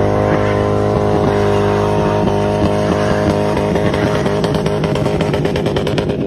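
A motor vehicle's engine running steadily under way, a strong even drone that eases slightly in level near the end.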